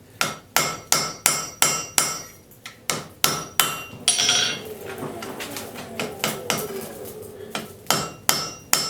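Hand hammer blows on the hot end of a railroad spike against the anvil, upsetting the steel at a dull orange heat: regular ringing strikes about three a second. The blows stop for a few seconds in the middle, with a brief hiss, then start again near the end.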